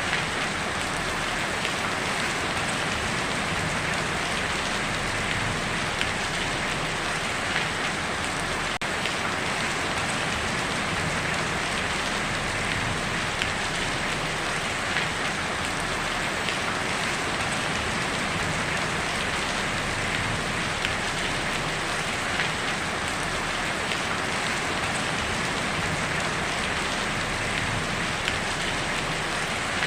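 Heavy rain falling on a tin roof: a steady, even hiss with small scattered drop ticks.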